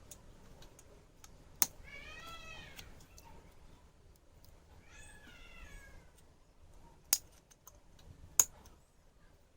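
A cat meowing twice: one call that rises and falls, then a second that falls away. Three sharp clicks or knocks, the loudest sounds, come before, between and after the calls.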